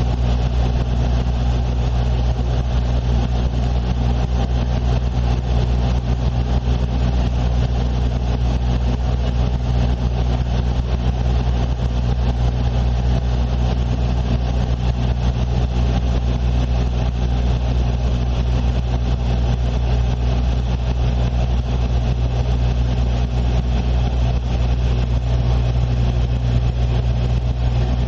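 Steady, unchanging drone of an airliner's engines heard from inside the passenger cabin in flight, strong in low hum.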